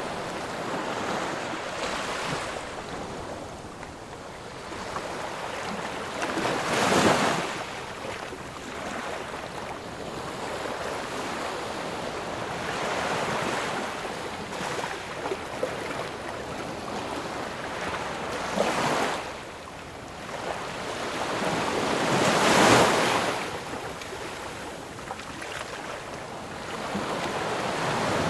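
Ocean surf: a steady wash of waves, with breakers swelling and crashing louder about a quarter of the way in and again about three-quarters of the way in.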